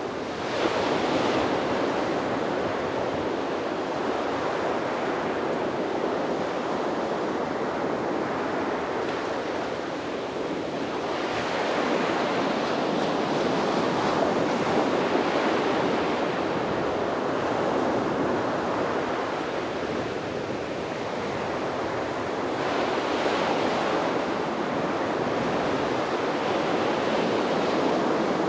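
Sea waves washing onto a beach, a continuous surf that swells and ebbs every few seconds, with some wind on the microphone.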